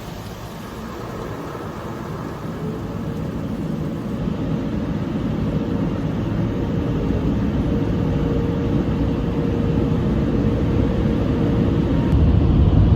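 Automatic drive-through car wash machinery heard from inside the car with the windows up: a steady rushing noise with a faint steady hum that grows gradually louder, turning to a stronger low rumble near the end.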